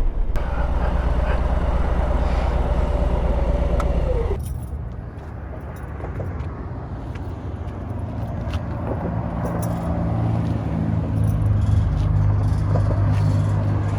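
Harley-Davidson Road Glide motorcycle engine running with road and wind noise while riding. About four seconds in the sound drops abruptly to a quieter engine hum, which then grows louder again.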